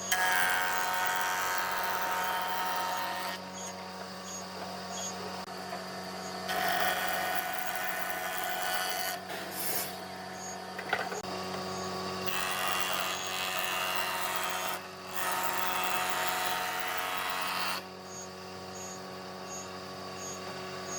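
An electric woodworking machine running with a steady hum while a tool cuts and scrapes the wood. The cutting noise changes abruptly every few seconds.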